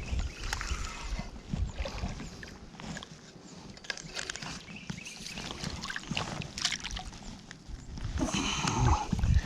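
Scattered light knocks and clicks with some water sloshing around a fishing kayak, then a louder burst of rustling and knocking near the end.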